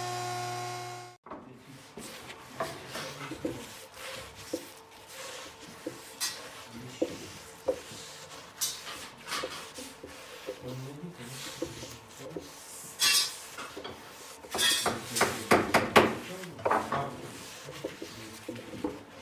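A machine's steady hum cuts off about a second in, followed by irregular knocking and clattering of parts and tools being handled, with a louder burst of clatter near the end.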